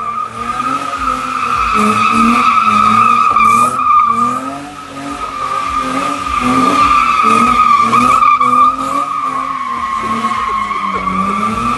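BMW E30 with a 2.8-litre engine drifting: its tyres squeal continuously while the engine revs rise and fall again and again with the throttle, easing off briefly about a third of the way in.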